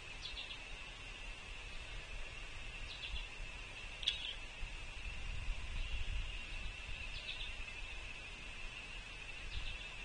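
Outdoor feeder ambience: short bird calls about every two to three seconds, the clearest about four seconds in, over a steady high-pitched drone and a low rumble.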